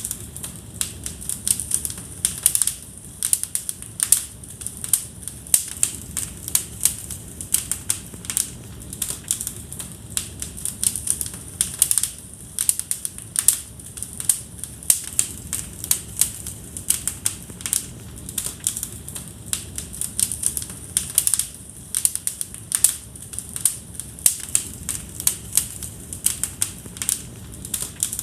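Wood fire crackling in a fireplace: irregular sharp snaps and pops, several a second, over a low steady rush of burning.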